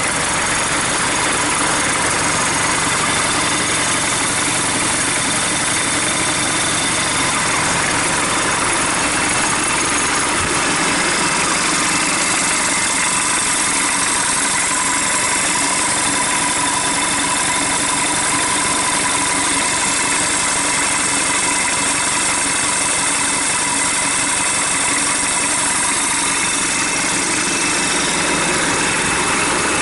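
Hyundai D4BH 2.5-litre turbodiesel four-cylinder with a mechanical injection pump, idling steadily while run out of the vehicle on a test stand.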